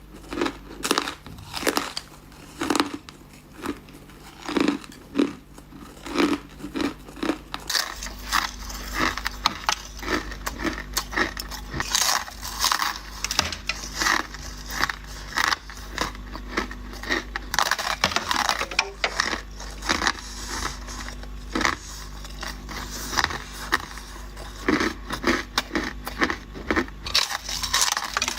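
Close-up ice crunching: a person biting and chewing ice, with rapid, irregular crunches several times a second.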